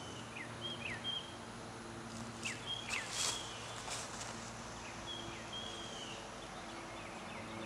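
Birds calling faintly in the trees: short high chirps and whistles, several sliding down in pitch, heard a few times over quiet outdoor ambience.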